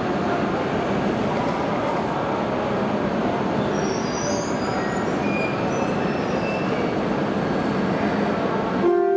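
Shinkansen train noise at the platform during the coupling of an E6 series set to an E5 series set: a steady, dense rush of running equipment, with a few faint, brief high squeals about four seconds in. Just before the end, a few steady tones begin.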